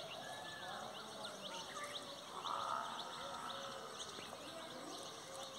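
Birds chirping in the background, a steady scatter of many short high chirps, with one brief louder sound about halfway through.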